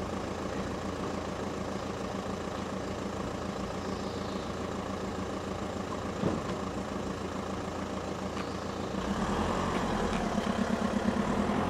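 Street traffic: a motor vehicle engine running steadily, growing louder from about nine seconds in as a vehicle draws near, with a single short knock about six seconds in.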